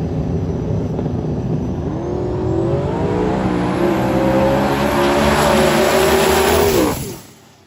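Drag-racing vehicle engine at full throttle down the strip, its note climbing about two seconds in and then holding high, stopping suddenly near the end.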